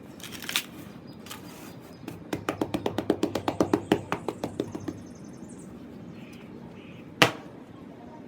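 Tapping on hardened sand-cement blocks: a light knock about half a second in, then a fast run of sharp taps, about nine a second for nearly three seconds, and one loud sharp knock near the end.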